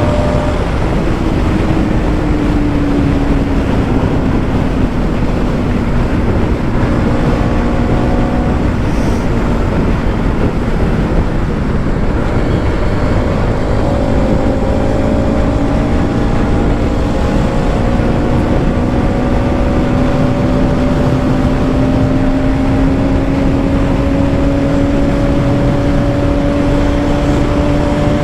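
Bajaj Pulsar NS200's single-cylinder engine running at high speed under heavy wind noise on the microphone. Its pitch drops about a second in, as at an upshift, then climbs slowly through the second half as the bike gains speed.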